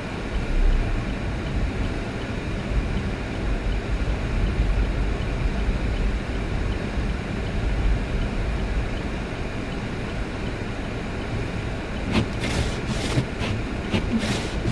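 Vehicle driving on a road: a steady low rumble of engine and tyre noise. A few short clicks or knocks come near the end.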